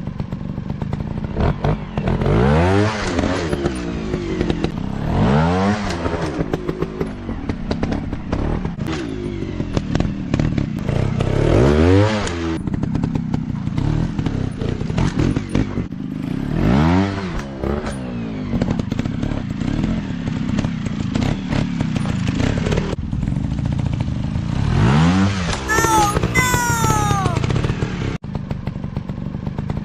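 Dirt bike engines revving up and dropping back again and again, each throttle burst a few seconds apart, as the bikes ride off-road.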